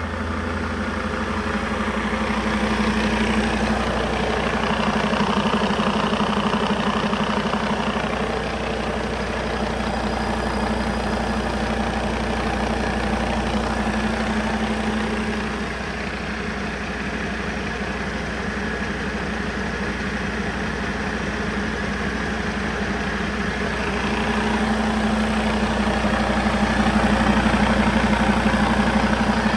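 2011 International MaxxForce 15 inline-six diesel engine (15.2 litre) running steadily at idle.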